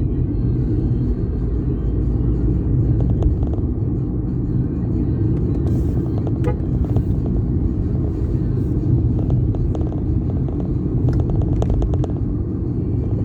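Steady low rumble of road traffic and a moving vehicle, with scattered faint clicks.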